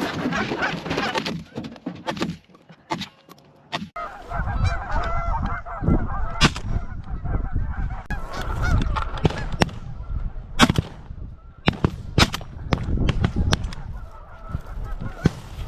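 A flock of geese honking and calling over one another, with a number of sharp cracks scattered among the calls and a low rumble underneath from about four seconds in.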